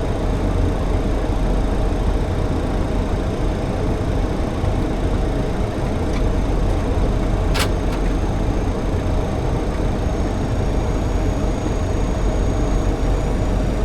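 Steady flight-deck noise of a Boeing 737-800 on final approach with gear and flaps down: airflow rushing past the cockpit over a low rumble from the engines at approach power, with a faint steady hum. A single sharp click about halfway through.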